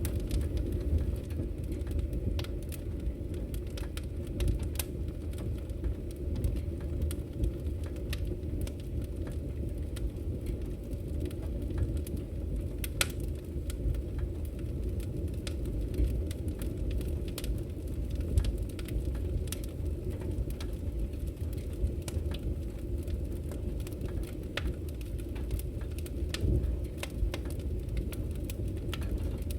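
Wood fire in a fireplace crackling: scattered sharp pops and snaps over a steady low rumble of the burning logs.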